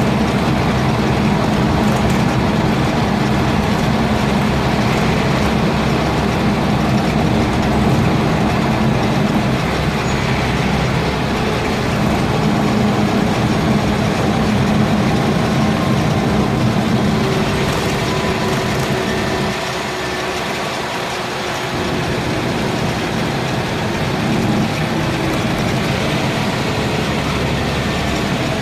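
Scania N230UB bus's five-cylinder diesel engine running steadily. About two-thirds through, the engine sound briefly drops away, then comes back with a faint rising whine.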